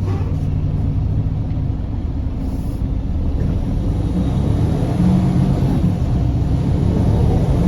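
Semi truck's diesel engine running at low speed, a steady low rumble with road noise.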